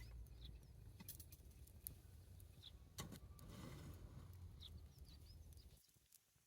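Faint outdoor ambience: a bird chirps briefly now and then over a low rumble, with a few sharp clicks. The rumble drops away near the end.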